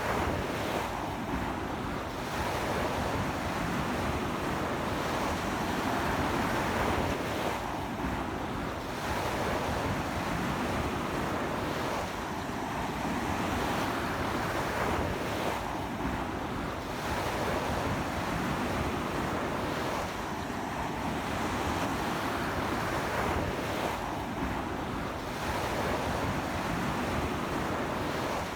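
Ocean surf breaking on a sandy beach in strong wind: a continuous wash of noise that swells and eases every four seconds or so as the waves roll in.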